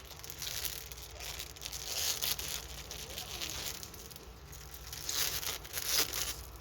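Plastic packaging crinkling and tearing in irregular bursts as a diamond painting kit's bag is handled and opened.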